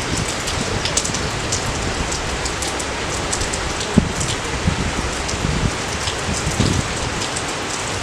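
Steady rain falling, with many separate drops pattering and occasional louder, deeper drop hits, the sharpest about halfway through.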